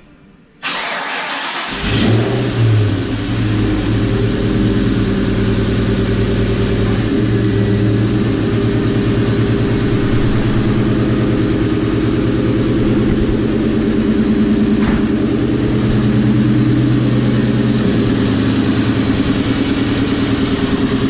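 A 2003 Ford Mustang GT's 4.6-litre two-valve V8 is cranked by the starter and catches about two seconds in, flares briefly, then idles steadily. Its X-pipe has an exhaust leak off the headers that sealant has not cured, which the owner hears as a little pop at idle.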